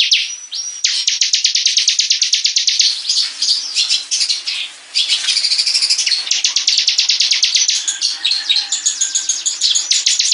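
Ciblek (bar-winged prinia) singing loud, rapid trills of sharp repeated high notes, about a dozen a second, in long runs with brief breaks near the start and about five seconds in.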